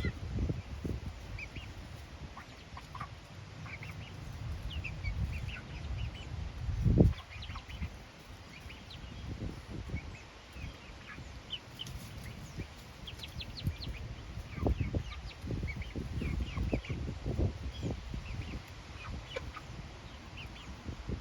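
Hens clucking softly and chirping in short notes while they feed, over a low rumble with a few dull thumps on the microphone.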